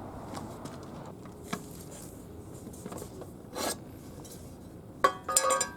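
Faint rubbing and scattered soft clicks, then near the end a sharp knock and a brief clatter with a ringing tone as the lid of the rice pot is handled.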